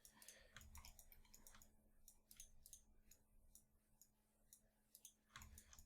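Near silence, broken by faint, irregular clicks of a computer mouse and keyboard, over a faint steady hum.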